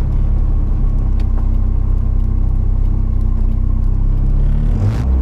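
Car engine running at a steady speed with road noise while the car is driven, with no clear revving.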